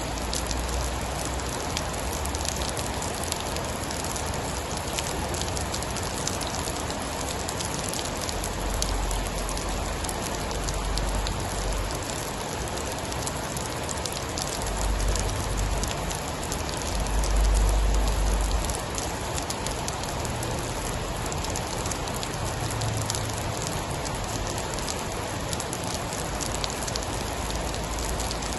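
Steady heavy rain, a dense even patter. Deep low rumbles swell under it several times, loudest a little past the middle.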